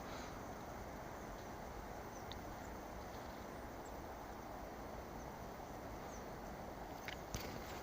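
Steady outdoor background hiss with a few faint, brief high chirps from small birds at a feeding station, and a few light taps near the end.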